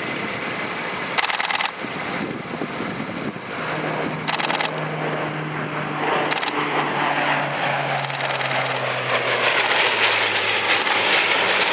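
RCAF C-130 Hercules four-engine turboprop droning in flight, a steady engine tone that sinks slightly in pitch in the second half. Several short, louder bursts of noise cut through it.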